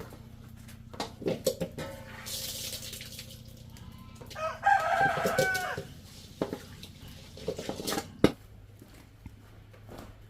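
A rooster crows once, for about a second and a half, starting about four and a half seconds in. Around it are scattered clicks and knocks, a short hiss before the crow, and one sharp knock near the end that is the loudest single sound.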